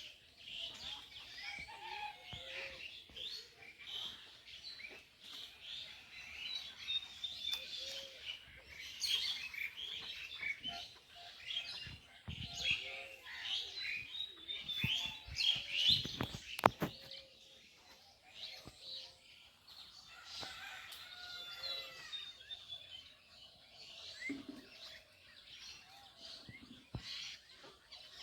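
Many small birds chirping and twittering, with a lower short note repeating every two to three seconds. A few sharp knocks come about halfway through.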